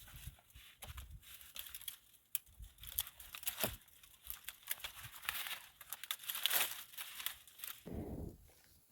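Irregular crackling and rustling of dry material being crumpled and torn by hand, with a duller, lower rustle near the end.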